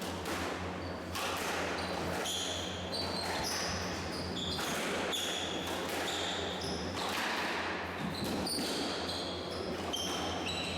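Squash rally: the ball repeatedly struck by rackets and smacking off the court walls, with many short, high squeaks of court shoes on the floor, over a steady low hum.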